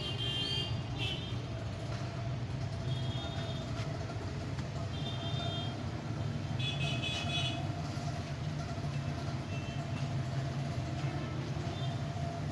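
Steady road-traffic rumble with several short horn toots.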